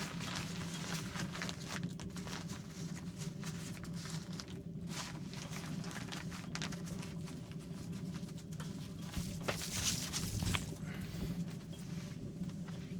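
Rain pattering on a tent, a dense run of small taps and clicks over a steady low hum, with a louder rustle about ten seconds in.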